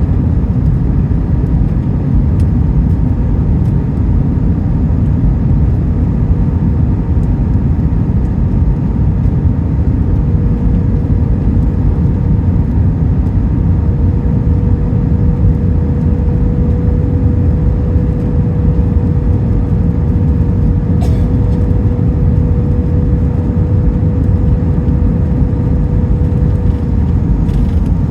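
Steady low rumble of an Airbus A321 heard from inside the passenger cabin, with a faint steady engine whine that comes in about a third of the way through and holds.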